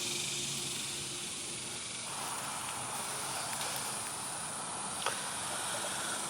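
Steady outdoor background hiss. A faint low hum fades out about two seconds in, and there is one faint click about five seconds in.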